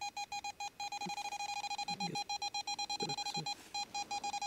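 K2 EMF meter beeping: a high electronic tone pulsing rapidly, about five beeps a second, that runs into a near-continuous tone about a second in, with a short break near the end. The meter is pegged at a strong reading, which the investigators take for a spirit's "strong yes".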